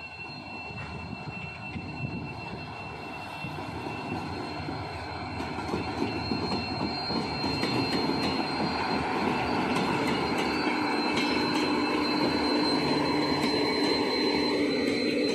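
Locomotive-hauled passenger train passing close by, its running noise building as the locomotive and then the coaches roll past. A thin, steady high whine runs throughout.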